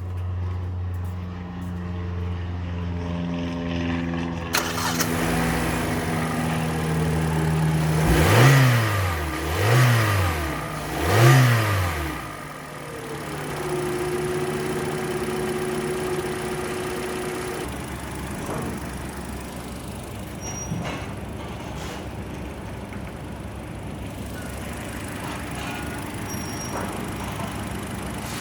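Car engine idling steadily, then revved three times in quick succession, each rev rising and falling back, before settling into idle again. An engine test run of a used engine.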